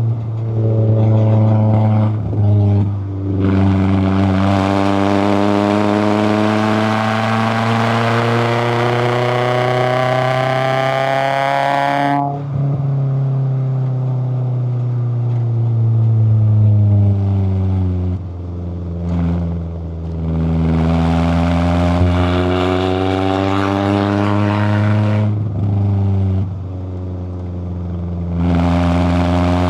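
Toyota AE86 Corolla Levin's twin-cam 4A-GE four-cylinder engine pulling hard, revs rising steadily for several seconds. About twelve seconds in the throttle snaps shut and the revs fall away. It then accelerates again, with short dips where the throttle is lifted.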